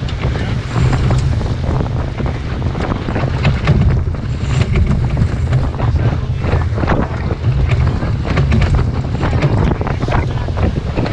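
Strong wind buffeting the microphone in a heavy low rumble, with water rushing and splashing against the hull of a sailboat under way.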